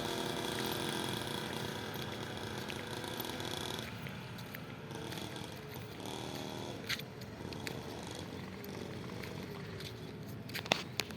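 Small mini trail motorcycle engine running, louder for the first few seconds and then fainter, with a brief rise in pitch about six seconds in as it is revved. A few sharp clicks near the end.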